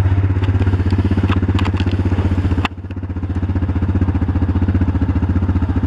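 A vehicle engine idling close by with a steady, even pulse. A sharp click about three seconds in briefly drops the level before the engine sound returns.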